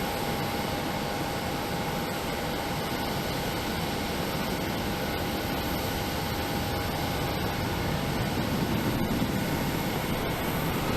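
Jet airliner engines running at takeoff power: a steady roar with a steady whine through the first half and a rising whine near the end.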